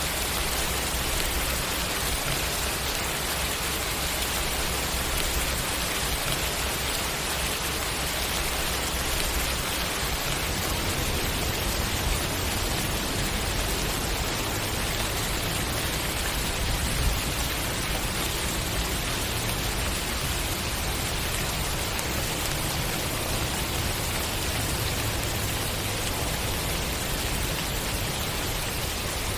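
Steady rainfall, an even hiss of rain on surfaces that holds constant throughout.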